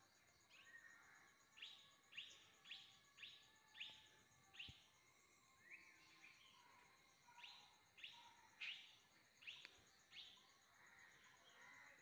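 A bird calling: a faint series of short, rising, whistled notes, about two a second, in two runs of five or six. A thin, steady, pulsing high tone sits behind them.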